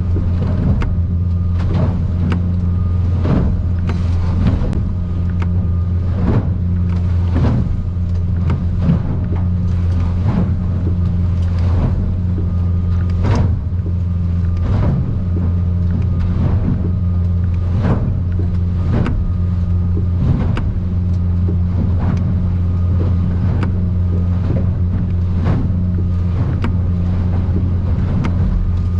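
Boat's outboard engine running with a steady drone, heard inside the cabin, while the aluminium hull knocks and slaps against the swells about once a second in rough water.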